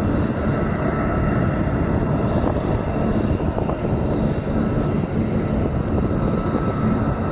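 Military jet aircraft engines running: a steady, unbroken noise with a faint whine on top.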